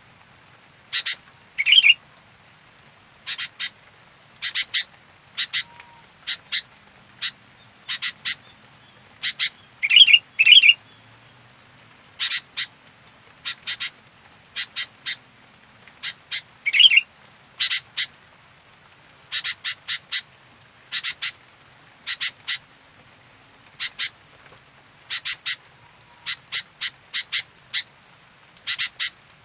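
Sooty-headed bulbul (kutilang) calling actively: short, sharp notes in quick runs of two to four, repeated every second or so. A few lower, fuller notes come in about 2, 10 and 17 seconds in.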